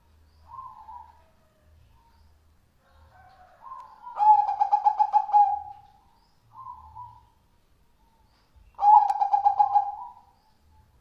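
Zebra dove (perkutut) cooing. Soft short coos alternate with two loud, rapidly rolling coo phrases, one about four seconds in and one about nine seconds in.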